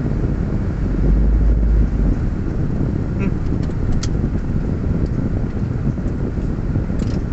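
Car engine idling, a steady low rumble heard from inside the cabin, swelling briefly about a second in, with a few faint clicks around the middle and near the end.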